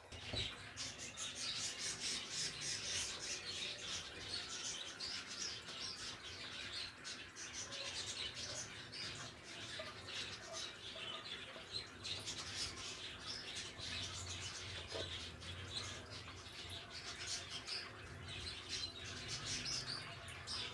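Small birds chirping continuously in the background, many short high chirps overlapping, over a faint low hum.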